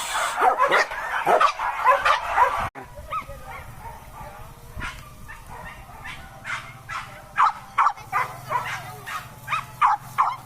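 Hunting dogs barking and yelping excitedly on a wild boar chase: a dense chorus of yelps for the first few seconds, then it breaks off suddenly, and short scattered barks follow that grow louder near the end.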